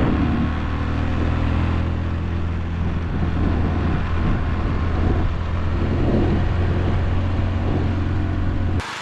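Honda Super Cub 110's small single-cylinder engine running steadily under way, with rushing noise over it, cut off abruptly near the end.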